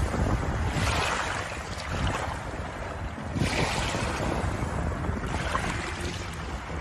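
Ocean waves washing in, the hiss of surf swelling and fading about every three seconds.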